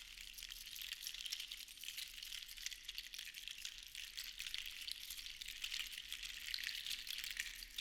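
Seashells shaken together: a continuous, dense clatter of tiny clicks.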